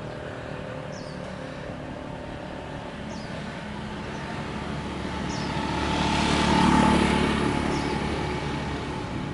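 Street traffic: a motor vehicle passes, its engine noise swelling to a peak about two-thirds of the way through and then fading. Faint short high chirps sound every two seconds or so.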